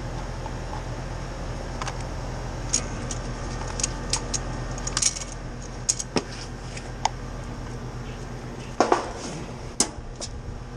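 Light metallic clinks and clicks of tools and fittings being handled, a dozen or so scattered through, with a double clatter about nine seconds in, over a steady low hum.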